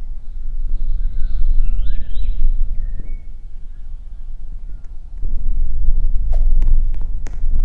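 MRT Line 3 light-rail train running: a steady low rumble, with a few short high squeaks about a second or two in, growing louder about five seconds in, with a run of sharp clicks near the end.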